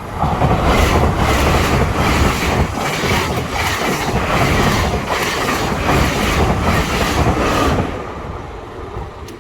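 A train passing close by, its wheels clattering in a quick, even rhythm over the rails. The noise drops away sharply near the end.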